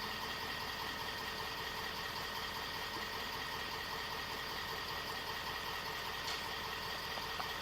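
Steady hum of an idling vehicle engine, unchanging throughout.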